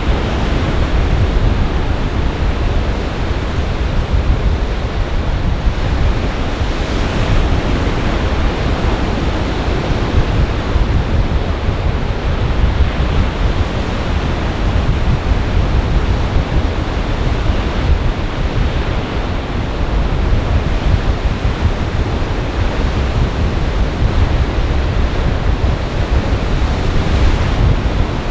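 Lake Michigan storm waves breaking continuously under gale-force wind, with heavy low wind rumble on the microphone.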